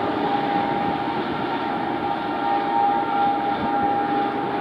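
Humsafar Express passenger train running away at full speed, the rush and rumble of its coaches on the rails slowly fading, with a steady ringing tone through it.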